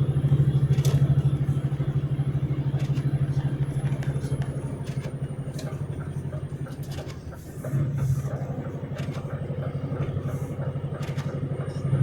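Vehicle engine running steadily with a low, pulsing drone that eases off about seven seconds in and picks up again a moment later.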